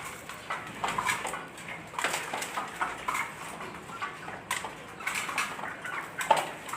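Dong Tao chickens clucking softly, amid many short clicks and taps.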